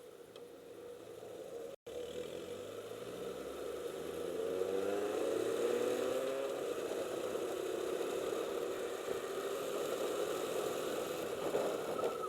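Motorcycle engine accelerating while riding, its pitch climbing over a few seconds and then holding steady at speed, over a steady rush of wind noise. The sound cuts out completely for an instant near the start.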